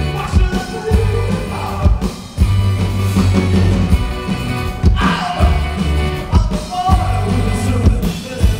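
Live rock band playing, with drums, bass and a singing voice, recorded from the audience in a concert hall.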